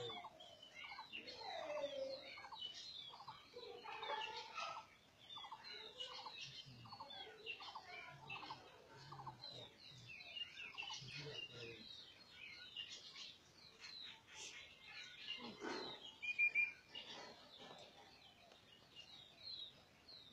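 Small birds chirping in many short, repeated calls.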